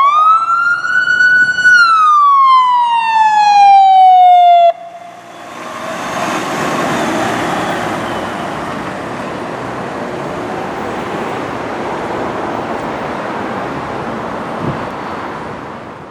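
Fire apparatus siren wailing, rising then falling in pitch, then cutting off suddenly about five seconds in. Steady engine and road noise from the passing fire vehicles follows and fades away near the end.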